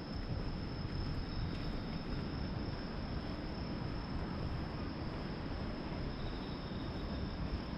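Crickets trilling steadily at one high pitch, with a second, fainter insect trill joining twice, over a constant low rumble.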